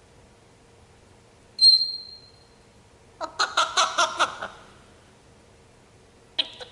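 African grey parrot giving one short, sharp whistle, then about a second later a fast run of about eight short, harsh chattering notes, and a brief squawk near the end.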